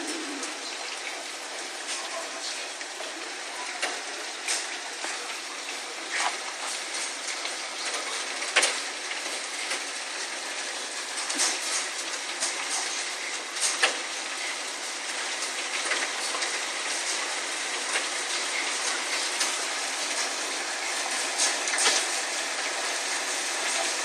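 Heavy rain pouring steadily during a hail storm, with scattered sharp knocks of hailstones striking at irregular intervals.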